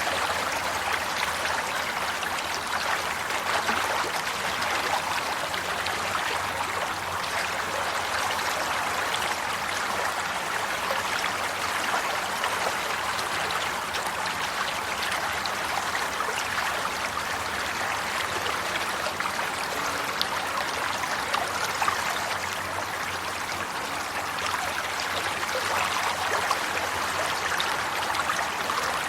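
Flowing water running steadily, a stream-like babble with many small splashes and trickles.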